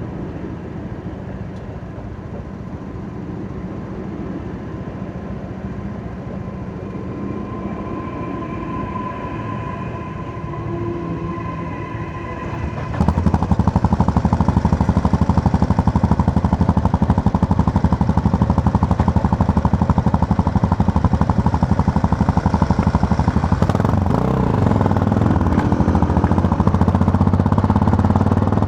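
Yamaha MT-03 motorcycle's parallel-twin engine running on the road. It is fairly quiet at first, then about halfway through it suddenly gets much louder, with a rapid pulsing beat that holds to the end.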